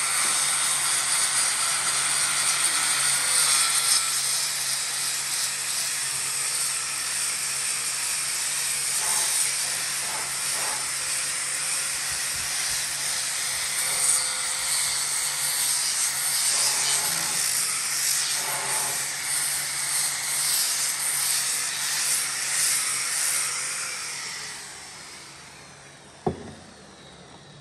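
A power tool working wood with a steady hiss and a low hum beneath. It winds down with a falling tone about 24 seconds in, and a single sharp knock follows near the end.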